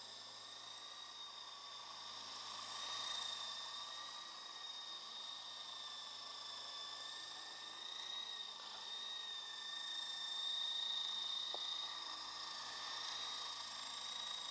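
Lama V4 coaxial RC helicopter's small electric motors whining steadily, the pitch wavering slightly as the level swells and fades.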